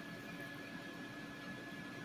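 Nuwave Brio air fryer running steadily while it preheats: an even fan whir with a constant faint high whine and a low hum.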